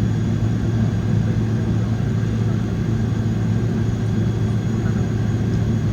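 Boeing 777-300's GE90 turbofan engines running, a loud steady drone with a strong low hum and no change in pitch or level.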